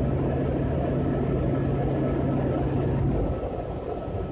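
Metro railcar running along the track, heard from inside the car: a steady rumble with a low hum that cuts out about three seconds in, after which it is a little quieter.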